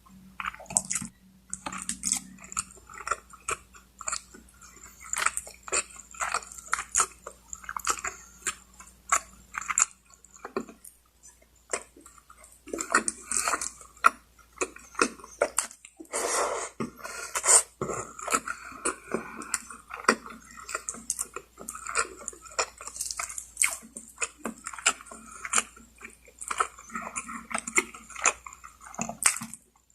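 Close-miked chewing and biting of lechon manok (spit-roasted chicken), a steady run of wet mouth clicks and smacks.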